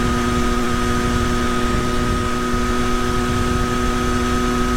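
Triumph Daytona Moto2's three-cylinder engine running at a steady speed under way, open-sounding through a link pipe that replaces the stock muffler, with wind rumble on the microphone.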